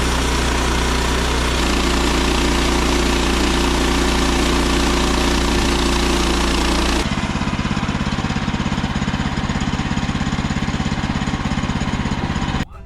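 Engine-driven log-sawing machinery running loudly and steadily. About seven seconds in the sound changes abruptly to a rapid, pulsing engine note, which cuts off suddenly just before the end.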